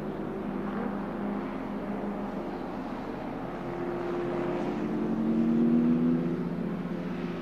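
Engines of 1950s sports racing cars running, several engine notes at once, with one rising in pitch and growing louder to a peak about six seconds in.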